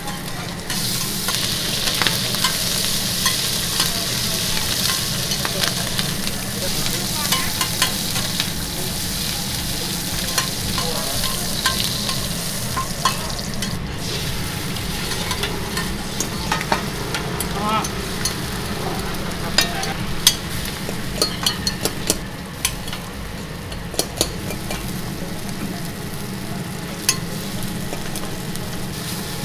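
Shrimp and eggs sizzling in oil on a large flat pan for pad thai, with a steady hiss and frequent sharp clicks of a metal spatula scraping and tapping against the pan.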